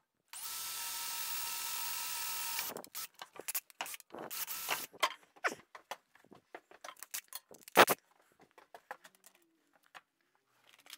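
A small electric power tool's motor runs steadily for about two and a half seconds, then again briefly, followed by scattered clicks and knocks of tools and workpieces being handled, with one sharp knock near the end.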